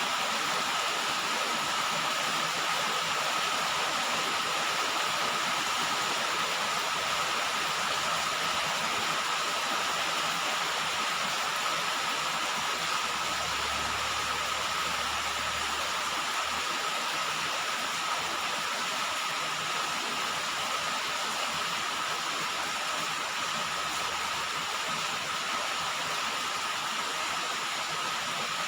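Steady rain falling on a roof, an even rushing hiss with no breaks.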